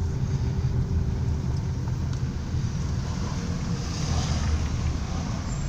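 Steady low rumble of a moving car heard from inside its cabin: engine and tyre road noise.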